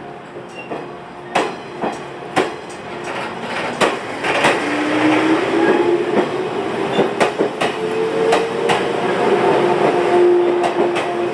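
A 115 series electric multiple unit pulling away: wheels clacking over rail joints, irregularly at first. From about four seconds in, the traction motor hum rises in pitch and grows louder as the train accelerates.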